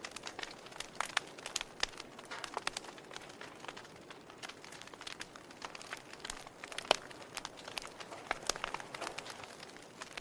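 Wood fire crackling in a fireplace: irregular pops and snaps over a soft hiss, with one louder pop about seven seconds in.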